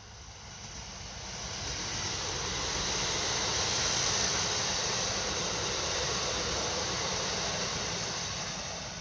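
A passenger train passing, its wheels rolling on the rails in a rush of noise that swells, is loudest about four seconds in, and fades as it goes by.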